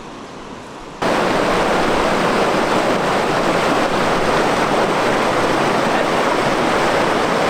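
Rushing river water, a steady loud wash that cuts in abruptly about a second in, after a quieter stretch of distant water.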